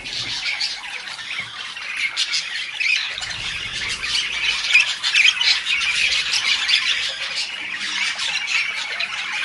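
Parrot squawking harshly and continuously, a dense run of short, shrill calls with no real pause. The sound starts and stops abruptly.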